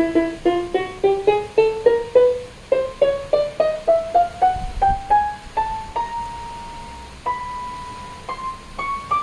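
Casio CTK-481 electronic keyboard played one key at a time in a rising run of single notes, as in a key-by-key test for a dead key. The notes come about four a second, then one is held longer near the middle, and slower notes carry on climbing.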